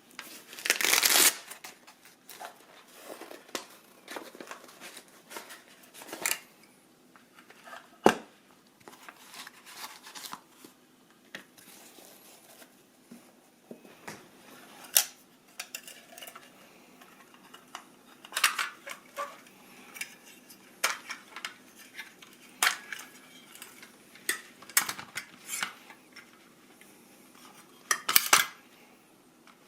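Camping stove gear being handled: scattered metal clicks, taps and clinks, with a short rustle about a second in.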